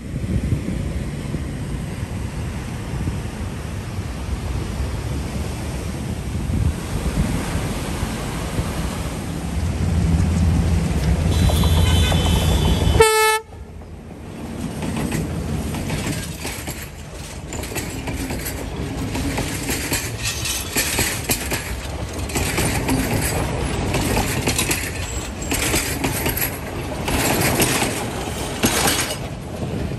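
Train running along the track, a steady low rumble that grows louder, then a short horn blast about thirteen seconds in. After that the sound breaks off sharply into an uneven, gusty rushing noise.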